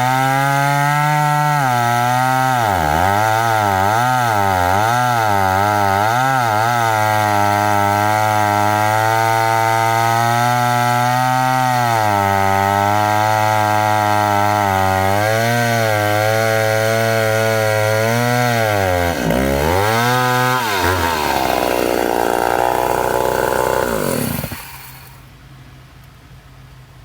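Two-stroke chainsaw running at full throttle while cutting pine, its pitch dipping again and again as the bar bogs in the wood. About 21 s in it drops off and winds down, stopping a few seconds before the end.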